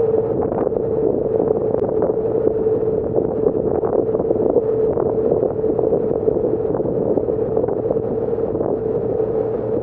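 Passenger ferry under way: its engines give a steady drone with a constant mid-pitched hum, mixed with wind buffeting the microphone.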